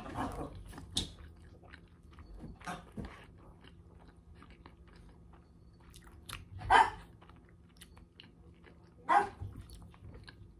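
A person chewing a bite of a soft fish sandwich up close, with many small wet mouth clicks. Two short, louder sounds stand out, about seven and nine seconds in.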